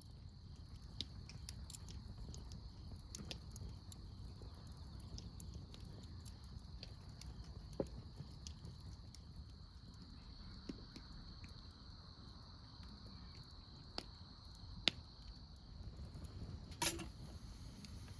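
Wood campfire crackling with scattered small clicks and a few sharper pops, over a steady high chirring of autumn insects.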